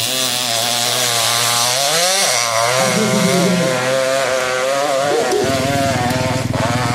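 600cc-class hillclimb motorcycle engine revving hard, its pitch rising and falling again and again as the rider climbs the hill. About five seconds in, a lower, rapidly pulsing engine note comes in underneath.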